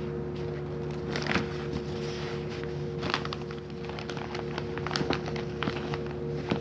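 Scattered clicks and rustles of belongings being handled and moved, over a steady electrical hum.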